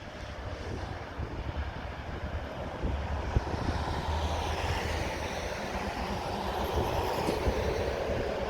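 Engine noise of passing vehicles, a rumble that swells about three seconds in and then holds steady.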